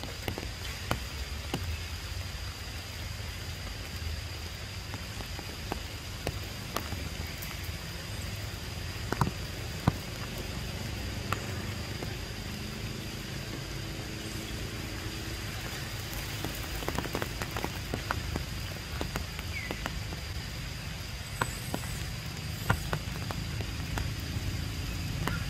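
Rain falling on tree leaves: a steady patter with scattered sharper drip-hits, over a low rumble and a thin steady high tone.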